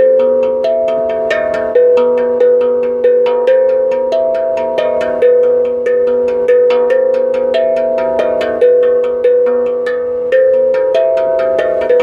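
Struck metal percussion played by hand in a fast, even rhythm, each strike ringing with a clear pitch, the notes stepping up and down in a repeating melody over a steady low ringing tone.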